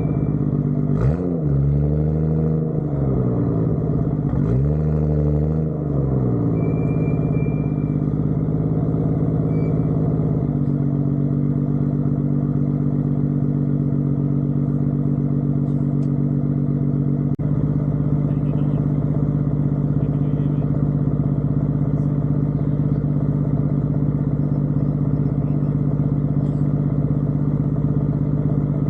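Car engine running under way. Its pitch rises and falls twice in the first few seconds, then it settles into a steady cruising drone.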